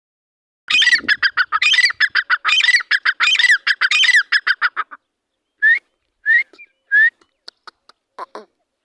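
Teetar (francolin) calling: a fast run of harsh, quickly repeated notes for about four seconds, then three short separate rising calls and a few faint clicks.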